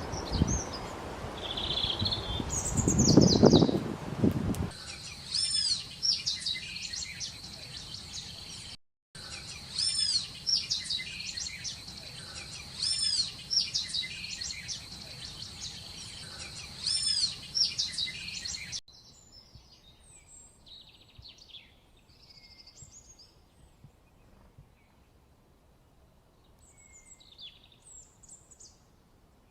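Small songbirds chirping and calling: a run of short, repeated, high arching call notes over a steady high-pitched tone, then fainter scattered chirps in the last third. A low rumbling noise sits under the first few seconds.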